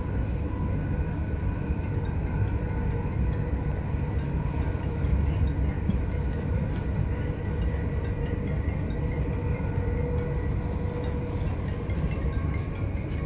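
c2c electric train running along the line: a steady low rumble of wheels on track with a faint motor whine. Light clicks and squeaks come in about four seconds in and again near the end.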